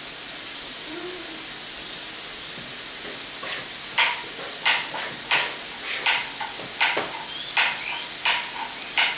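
Ground beef and sliced peppers sizzling in a skillet over a gas flame, a steady frying hiss. From about three seconds in, a regular run of sharp clicks comes about every 0.7 seconds.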